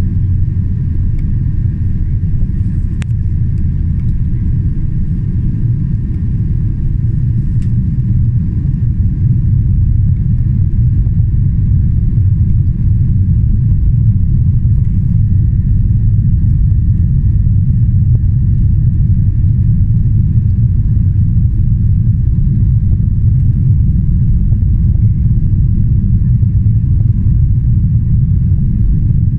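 Cabin noise inside a Boeing 777-300ER in flight: a steady low rumble of airflow and its General Electric GE90 engines, with faint steady whining tones above it. It grows slightly louder about twelve seconds in.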